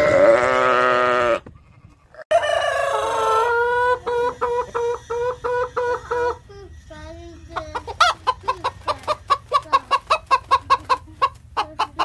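A sheep bleats once, a long loud call. After a short break a rooster crows, then hens cluck in a steady series that speeds up to rapid clucking, about three or four a second, in the second half.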